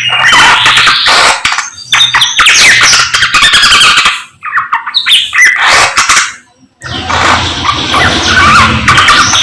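Samyong songbird singing loudly in rapid, chattering bursts of chirps and trills, broken by two short pauses.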